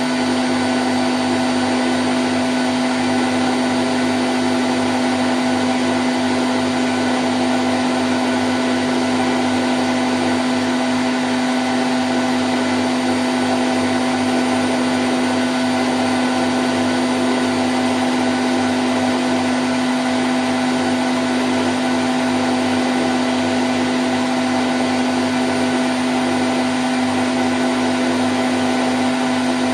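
Candy Grand O' F106 washing machine in its spin cycle at 1000 rpm, running steadily: an even motor hum with a strong steady low whine over a wash of noise.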